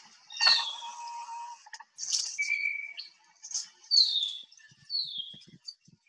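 Recorded backyard birdsong with several birds calling at once: a strong whistle slurring downward, repeated about once a second, over a lower, less prominent call and scattered short chirps.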